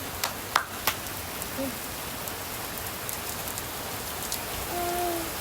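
Steady rain falling on hard surfaces, a constant hiss with a few sharp drop taps in the first second.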